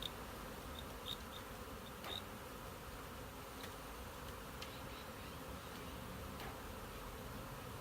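Swarm of honey bees buzzing, a steady droning hum of many bees in the air around the hive box, agitated after being shaken from the swarm.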